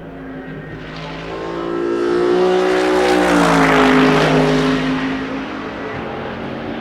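A racing car's engine passing at speed: it builds to its loudest about four seconds in, then its pitch drops and it fades as it goes by.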